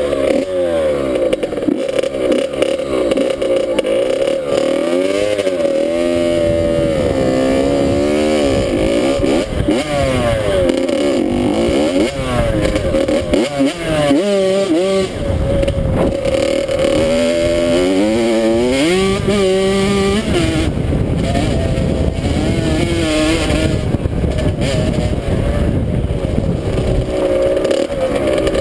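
Dirt bike engine revving and being ridden, its pitch climbing and dropping again and again as it accelerates, shifts and backs off.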